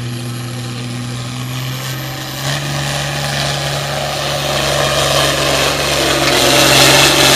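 Pro Farm class diesel pulling tractor working hard under load in a tractor pull, its engine running steadily and growing louder over the last few seconds.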